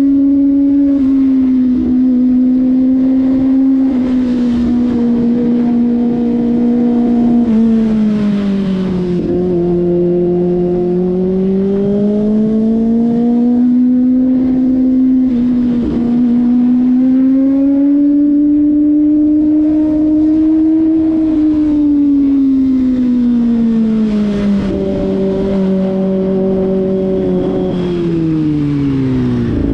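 Kawasaki ZX-25RR's 249 cc inline-four engine under way, running steadily in the mid revs. Its pitch rises and falls gently as the throttle is rolled on and off, and drops off near the end as the bike slows.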